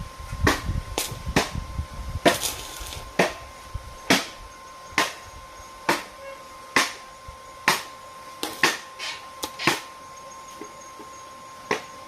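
Hammer blows struck repeatedly at about one a second, with a few quicker strikes just past the middle.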